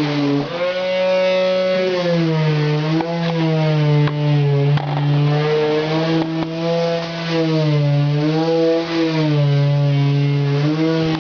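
A small engine droning steadily, its pitch slowly wavering up and down.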